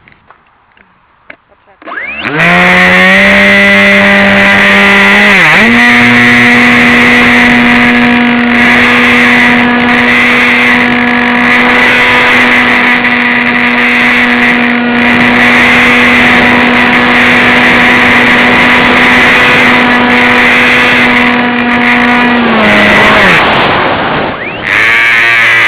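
Electric motor and propeller of a Bixler RC plane whining under power, a steady high-pitched tone that starts about two seconds in. It dips and settles a little higher around five seconds, then holds steady. Near the end it is throttled back, cuts out briefly, and comes back on.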